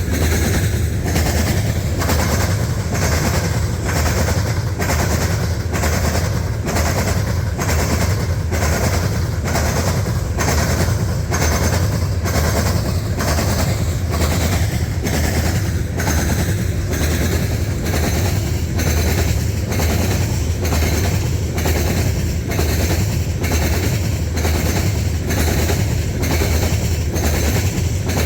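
Loaded coal hopper cars of a freight train rolling past, a steady low rumble with the wheels clicking over rail joints in an even rhythm, a little more than once a second.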